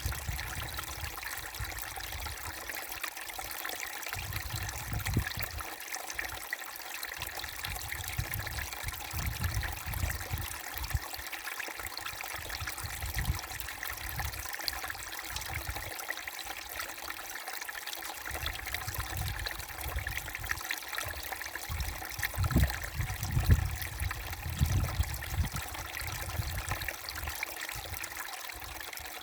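Babbling brook: a small stream's water trickling and rushing steadily, with irregular low rumbles that come and go, strongest about three quarters of the way in.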